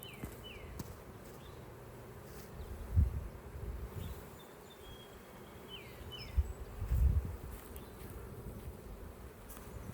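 Honeybees buzzing around an opened hive: a steady hum, with a couple of dull low bumps about three and seven seconds in and a few short falling chirps.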